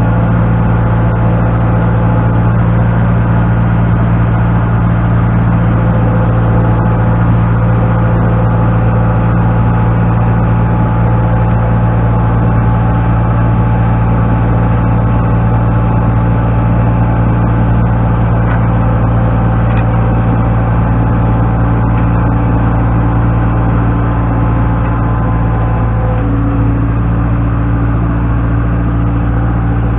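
A machine's engine running steadily at a constant speed, with a slight shift in its tone near the end.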